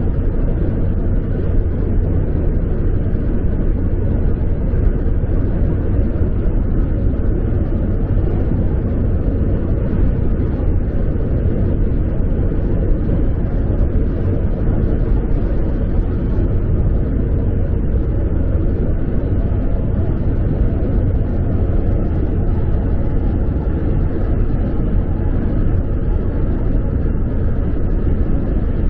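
Steady low rumble of a car on the move: road and engine noise, unchanging throughout.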